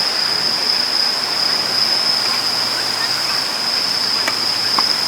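Strong wind rushing over the microphone, a steady noise with a thin high-pitched tone running under it, and two faint clicks near the end.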